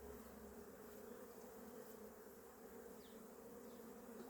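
Faint, steady hum of honeybees flying around an opened hive, the bees a little grouchy on a cool day.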